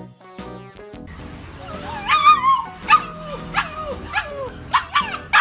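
A dog giving a run of high yelping calls about half a second apart, each one falling in pitch. They start about two seconds in. Before them, a short stretch of music cuts off about a second in.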